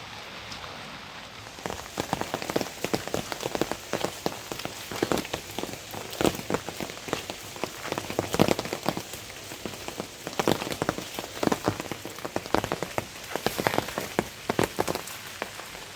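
Rain falling, with many sharp, close drop strikes on a surface starting about two seconds in.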